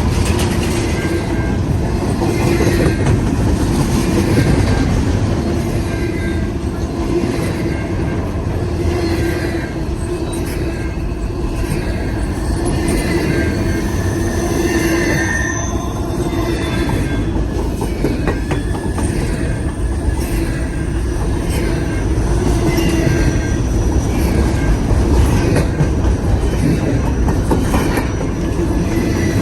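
Long intermodal freight train's cars rolling past, wheels clacking over rail joints, with squealing from the wheels that comes and goes.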